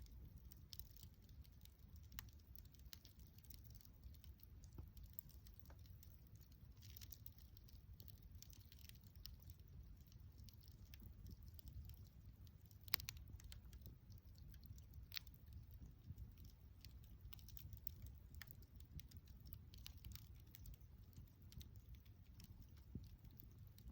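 Faint crackling of a wood campfire: irregular small pops and snaps over a low steady rumble, with one louder pop about halfway through.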